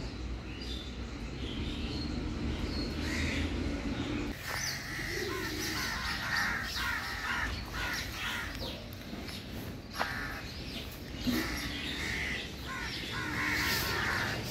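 Birds calling and chirping, many short calls one after another over a low steady background rumble.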